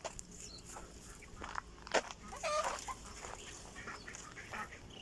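Free-range desi chickens clucking, with scattered short calls and one louder, drawn-out call a little after two seconds in.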